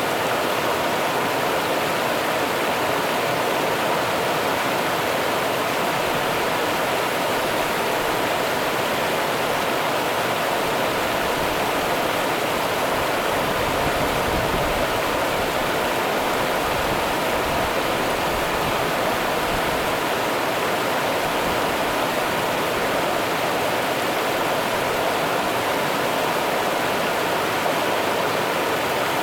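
Rio Grande river water rushing: a steady, unchanging rush of running water.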